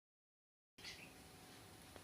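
A budgerigar gives one short, faint chirp about a second in, over low room hiss; a small click comes near the end.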